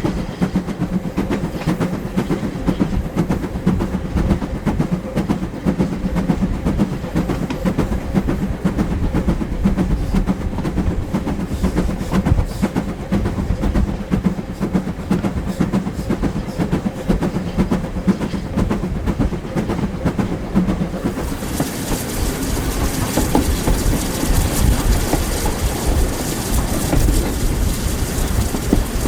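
Heritage steam-hauled train running along the line: a steady heavy rumble with the clickety-clack of wheels over rail joints. About three-quarters of the way through, a steady hiss joins the rumble.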